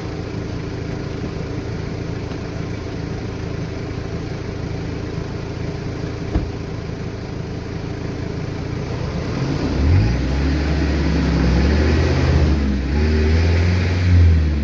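Four-wheel-drive engine idling, then revving up about ten seconds in and held under load for several seconds, as in pulling a bogged vehicle free. A single sharp knock about six seconds in.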